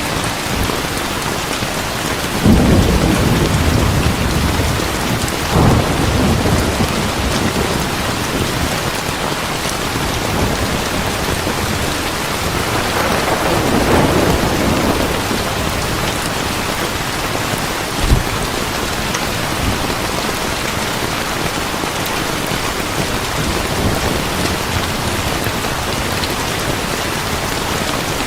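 Heavy rain pouring steadily, with thunder breaking over it: a sudden rumble about two and a half seconds in and another soon after, a longer roll near the middle, and a short sharp thud about two-thirds of the way through.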